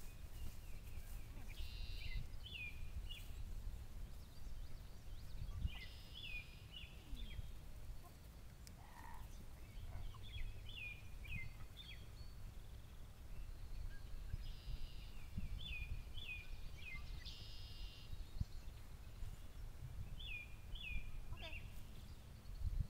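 Low, uneven wind rumble on the microphone. Over it, every few seconds, a bird repeats a short song phrase of three or four quick, falling notes.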